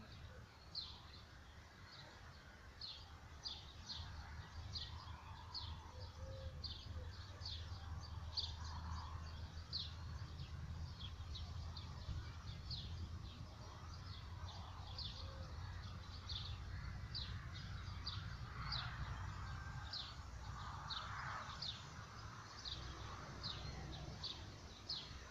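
A small songbird repeating a short, high, downward-slurred chirp over and over, roughly once or twice a second, over a low steady outdoor rumble.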